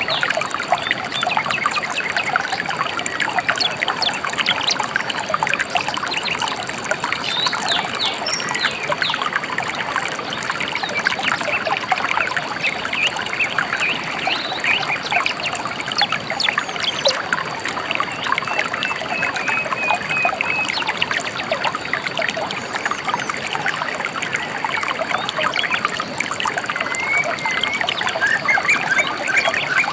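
A shallow river running and trickling steadily over stones, with birds chirping and whistling short phrases now and then above the water.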